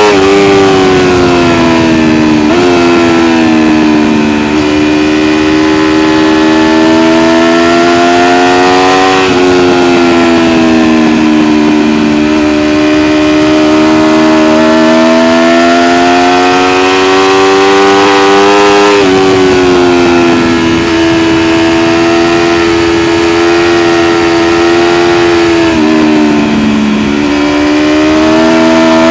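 Aprilia RSV4 1100 Factory's V4 engine heard from on board, its pitch climbing and falling steadily as the bike accelerates and slows, with several sudden jumps in pitch.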